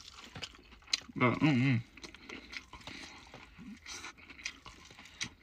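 A person chewing fried chicken covered in gravy, with small crunches and wet mouth clicks, and a short voiced hum about a second in.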